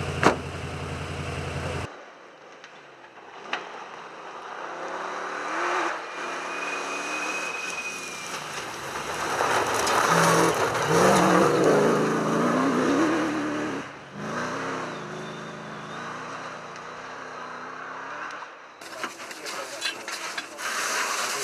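Cross-country rally cars driving and revving in a series of short shots, engine pitch rising and falling; the loudest pass swells about ten seconds in and fades. A steady engine hum in the first two seconds cuts off suddenly.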